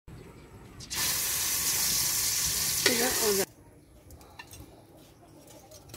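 Hot oil in a wok sizzling loudly as food is fried, starting about a second in and cutting off abruptly about two and a half seconds later, with a short wavering tone just before the cut; afterwards only faint background sound.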